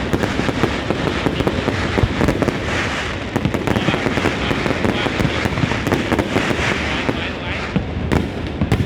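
New Year fireworks going off without a break: a dense, unbroken crackle of many rapid small bangs.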